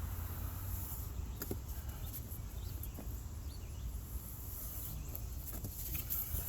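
Faint outdoor background with a steady low rumble and a few faint bird chirps, plus two light taps about a second and a half apart.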